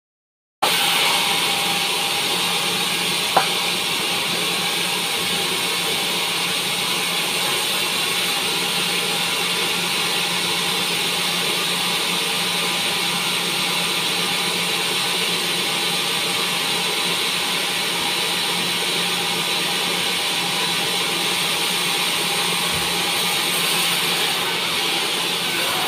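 Sawmill band saw running steadily, with one sharp click about three seconds in.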